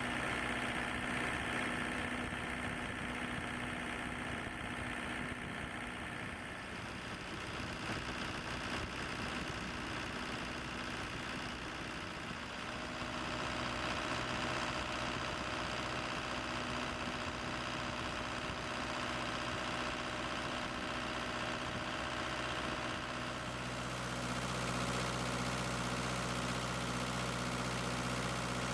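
Kubota V2203 four-cylinder diesel engine running steadily at idle, its note shifting about halfway through and again near the end.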